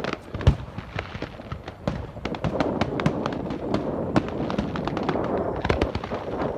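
Many sharp, irregular pops and cracks in quick succession over a steady noisy background, the loudest about half a second in.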